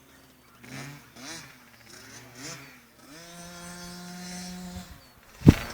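Small youth motocross bike engine revving up and down several times, then held at a steady high rev for a couple of seconds, with a sharp loud thump near the end.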